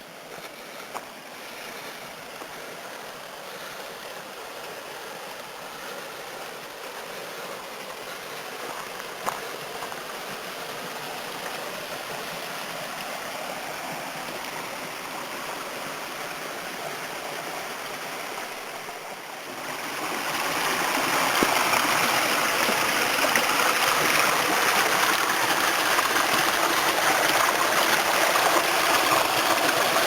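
Water of a small spring-fed creek rushing steadily over little rock waterfalls. It grows gradually louder, then jumps much louder about two-thirds of the way through and holds there.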